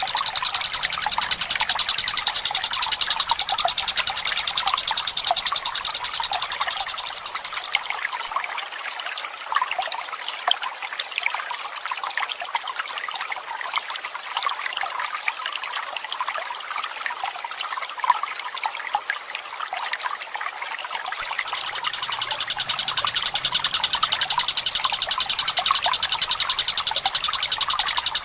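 Tengkek buto (kingfisher) giving a long, rapid rolling trill for the first several seconds, silent through the middle, then trilling again from about three-quarters of the way in. Underneath, water trickles and drips steadily.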